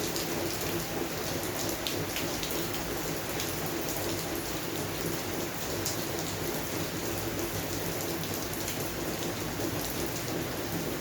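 Steady rain falling on a garden and its plants, an even hiss with scattered individual drops ticking through it.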